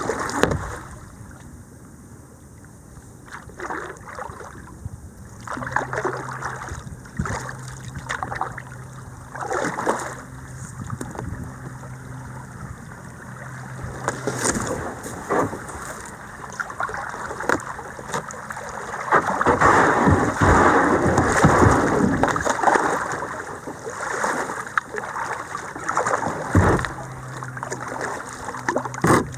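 Kayak moving down a shallow creek: paddle strokes and splashes over flowing water, with the water rushing louder for a few seconds past the middle.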